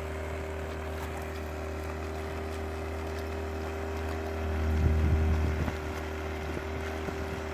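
Outboard motor running steadily, a constant hum with a fixed pitch, driving the yacht. About halfway through, a louder low rumble swells for about a second and fades.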